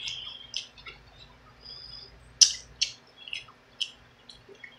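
Close-miked eating sounds: chewing with a string of short, wet mouth clicks and smacks, the loudest about halfway through.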